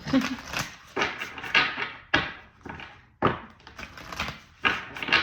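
Tarot cards being handled and set down on a table: about a dozen sharp slaps and taps at an uneven pace.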